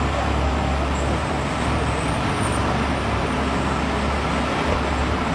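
Steady street traffic noise: a continuous rumble of passing and idling vehicles with no distinct single event.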